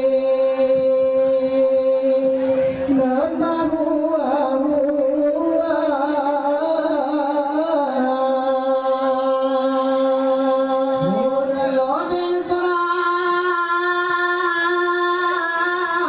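Saman chant sung by a group of men in unison, without instruments and pitched high. They hold long notes that step up in pitch a few times, sliding up to a higher note just before twelve seconds.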